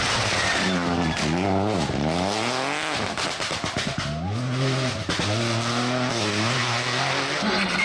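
Rally car engine revving hard, its pitch climbing and dropping again and again through gear changes and lifts off the throttle, with a short burst of sharp pops about three seconds in.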